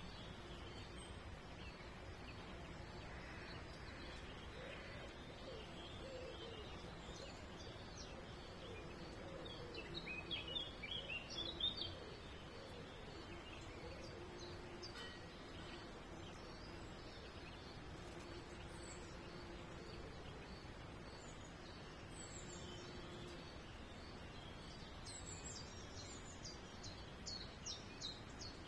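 Small birds chirping in short scattered bursts over faint steady background noise, with a louder flurry about ten seconds in and another near the end. A faint low drone comes and goes underneath.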